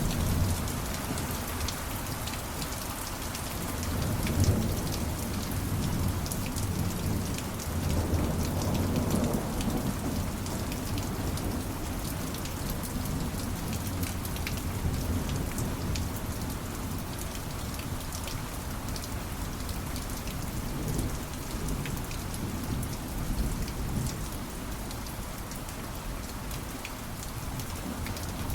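Steady rainfall with a dense patter of drops, and low rolls of thunder swelling about four seconds and again about eight seconds in.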